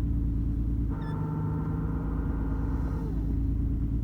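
BMW E34 driving, with a steady low rumble from its M50B25 engine and the road; about a second in, a whine from the Getrag 260 manual gearbox comes in and holds for about two seconds before fading. The whine is the gearbox's uncharacteristic hum, a fault the owner expects to fix by opening the box and replacing its bearings.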